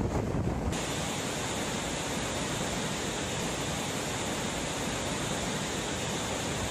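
Steady rushing storm noise of hurricane wind and water, an even hiss. Less than a second in, the low wind rumble on the microphone drops away and the hiss reaches higher and stays level.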